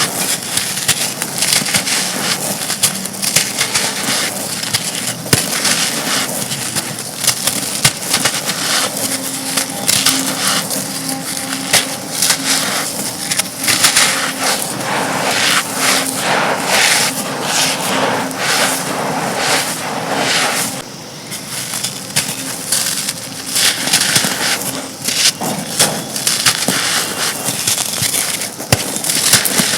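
Dry, dusty black brick chunks being crushed and crumbled: a dense, continuous crackle of small snaps and crunches, with a short lull about two-thirds of the way in.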